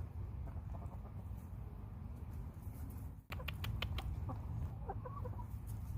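Backyard hens clucking softly, with a few sharp clicks a little past halfway, over a steady low background rumble.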